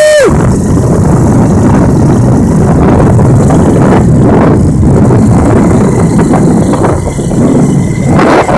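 Honda Win motorbike running steadily on the move, its engine mixed with heavy wind rush on the microphone. A short horn-like beep sounds right at the start.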